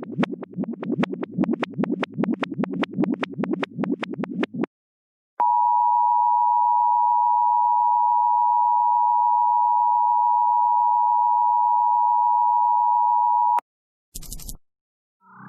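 A rapid, rough pulsing sound for about four and a half seconds, then a loud steady electronic tone, like a dial tone, held for about eight seconds before it cuts off suddenly. A brief burst of hiss follows near the end.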